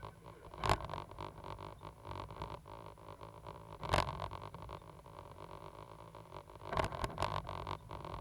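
Cat 320 GC excavator running with a steady low engine rumble, broken by sharp knocks about a second in, at about four seconds, and a quick cluster of them near seven seconds.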